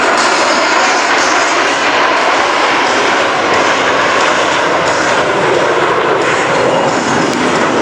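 Blue Angels F/A-18E/F Super Hornet jets in flight, their twin turbofan engines making loud, steady jet noise.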